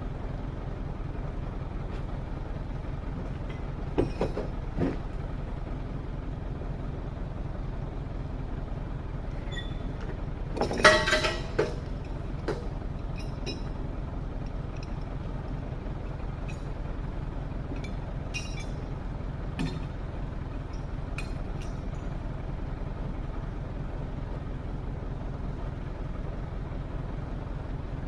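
A heavy engine running steadily at a low rumble, with occasional metallic clanks and knocks; the loudest cluster of clanks comes near the middle.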